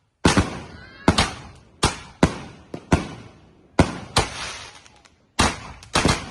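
Consumer 5-inch canister shells going off in a volley: a rapid, irregular series of about a dozen sharp bangs, from launches and bursts, each trailing off with an echo, with a brief lull about five seconds in.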